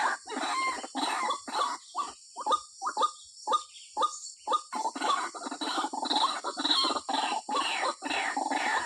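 White-breasted waterhen calling: a female's call to the male, made of quickly repeated notes at about two to three a second. A couple of seconds in the notes thin out into short, separate, falling notes, then run together again from about five seconds in.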